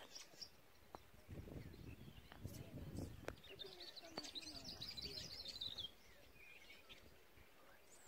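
Faint songbird twittering: a quick run of high chirps about four seconds in, lasting about two seconds. Earlier there is a soft low rumble and a few light clicks.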